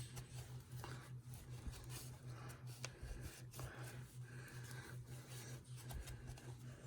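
Faint rubbing and handling noises with a few light clicks, over a steady, regularly pulsing low hum.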